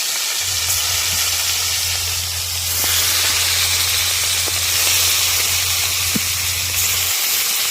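Chital fish muitha dumplings frying in hot oil, a loud steady sizzle. A steady low hum runs underneath and stops near the end.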